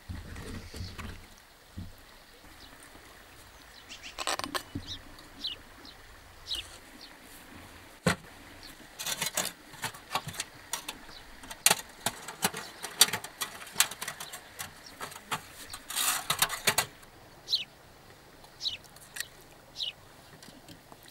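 Small birds chirping in short, falling calls now and then, among scattered sharp clicks and brief rustling handling noises.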